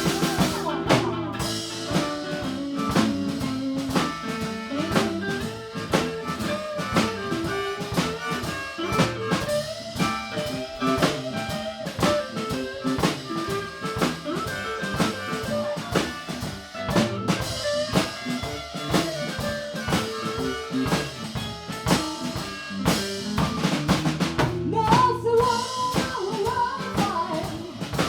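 Live blues band playing an instrumental passage in A: drum kit, guitar, and a lead line with bending notes.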